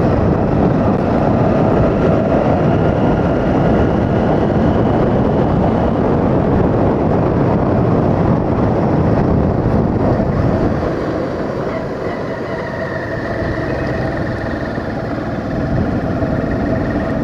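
Motorcycle riding uphill with its engine running under way, buried in heavy wind rush over the microphone. It gets somewhat quieter for a few seconds about two-thirds of the way through.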